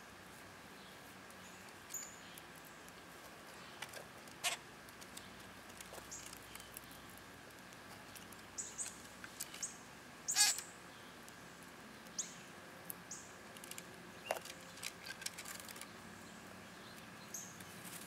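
Scattered short, high chirps over a faint steady high hum, with a few brief sharp rustling clicks; the loudest comes about ten seconds in.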